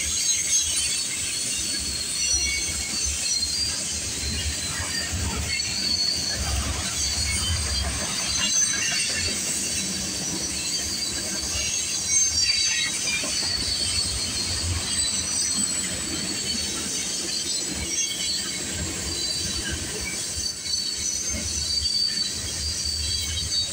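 Cars of a long freight train (tank cars, coil cars and flatcars) rolling past on steel rails. A steady rumble of wheels runs under a continuous high-pitched wheel squeal.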